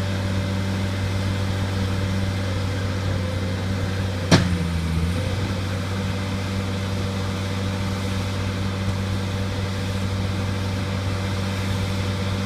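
Bobcat skid steer loader's engine running steadily at a constant speed, with one sharp knock about four seconds in.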